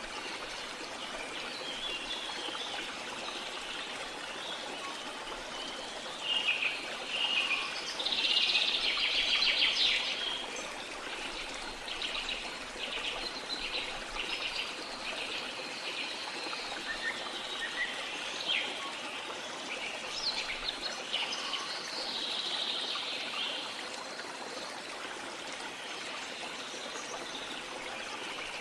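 Steady rush of a jungle waterfall with several birds calling and chirping over it. A rapid chattering call about a third of the way in is the loudest, followed by a run of evenly repeated short notes.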